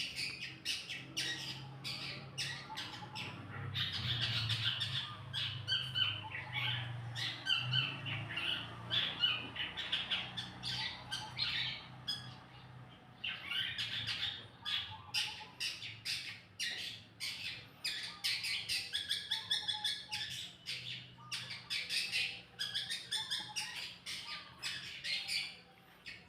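Songbird singing a busy, fast run of chirps and trills, a 'masteran' training song for other songbirds, with brief lulls about halfway and near the end. A steady low hum runs underneath.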